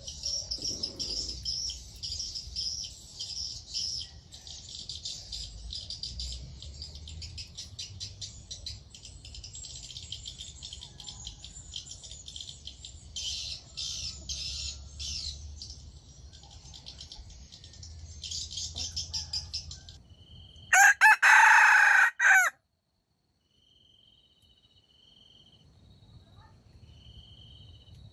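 Dense, high-pitched chirping of birds or insects for about twenty seconds. Then a wild junglefowl rooster crows once, loudly, about 21 seconds in. After a sudden drop to quiet, insects chirp faintly in a slow repeating pattern.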